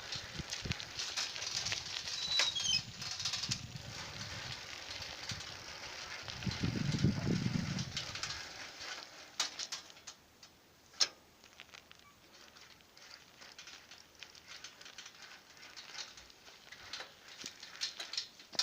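Outdoor ambience with a few short high bird chirps in the first few seconds. A brief low rumble swells and fades about seven seconds in, and scattered clicks and ticks follow in a quieter stretch.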